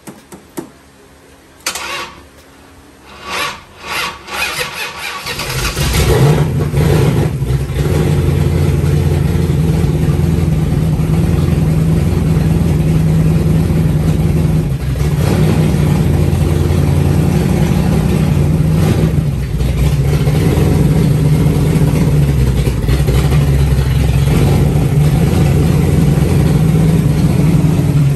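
Freshly built 360 stroker V8 being started for the first time: a few short bursts of cranking, then it catches about five seconds in and runs steadily.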